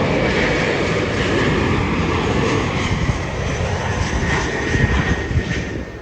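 Jet airliner's engines running loud, a broad rush with a thin steady whine over it, dropping away near the end.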